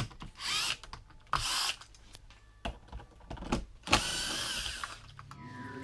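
Handling noise: several short scraping bursts mixed with clicks and knocks, with a loud knock about four seconds in followed by a longer scrape.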